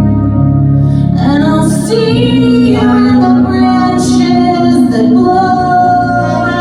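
Music: a woman singing long held notes over an instrumental accompaniment.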